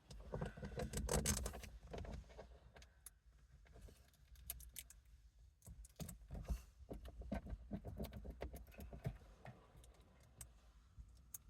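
Hands working with stickers: scattered light taps, clicks and rustling, loudest in the first couple of seconds.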